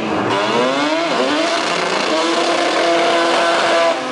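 Mazda RX-7 drag car engine revving during a burnout, its rear tyres spinning. The pitch rises over the first second, dips, then is held high and steady, and drops away near the end.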